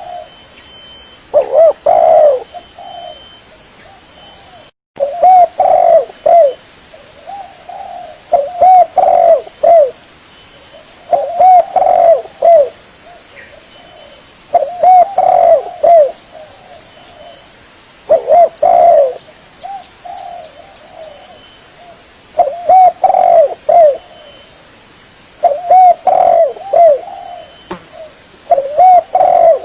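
Spotted dove cooing: phrases of several rounded coos repeated about every three seconds, with a brief break in the recording about five seconds in.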